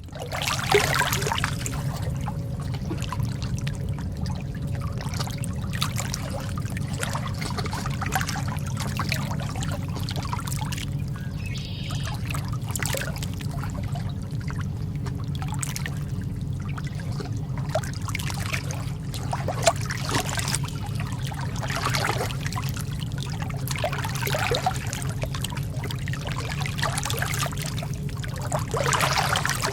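Lake water lapping gently, with irregular small splashes every second or two over a steady low rumble.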